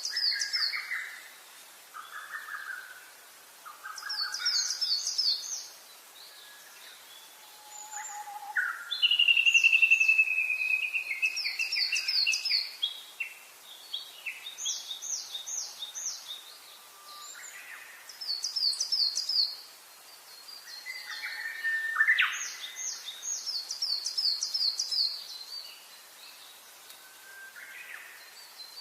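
Several wild birds singing, with repeated phrases of quick, high chirps every few seconds and lower warbling notes between them. About a third of the way in comes one long whistled note that falls slowly in pitch.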